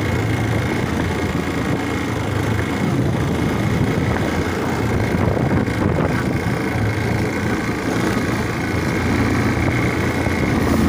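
Motorcycle engine running steadily under way, mixed with wind and road noise. The throttle is worked by pulling the snapped accelerator cable by hand.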